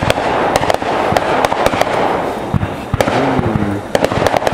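Fireworks going off: a continuous crackle with many sharp pops and bangs scattered through it.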